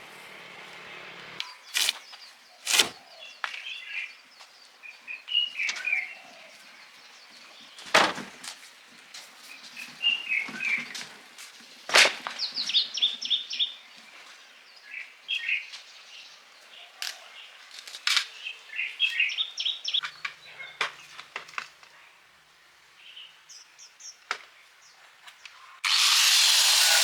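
Birds chirping in short repeated calls, with a few scattered sharp knocks of tools on a workpiece. Near the end a power tool starts up suddenly and runs loud and steady with a whine.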